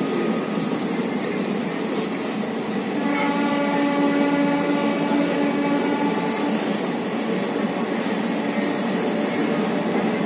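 Indian Railways DEMU diesel multiple-unit train moving past along the platform. About three seconds in, a train horn sounds one long steady note lasting roughly four seconds over the running noise.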